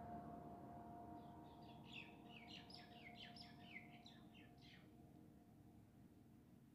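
Faint bird chirping: a quick series of short high notes lasting about three seconds, over near-silent room tone with a faint steady hum.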